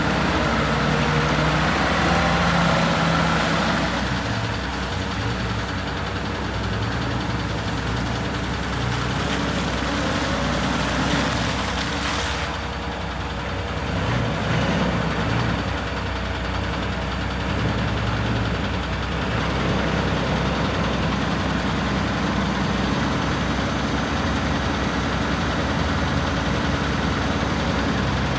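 Mitsubishi SD40 forklift engine running steadily at idle, its note shifting slightly a few times.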